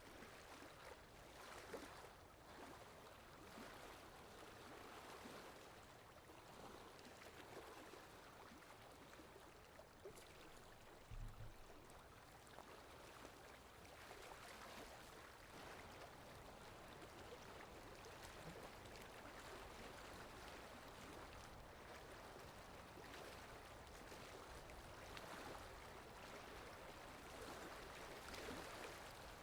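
Faint babbling of a flowing stream, an ambient water sound effect, running evenly with small surges. A brief low thump comes about 11 seconds in.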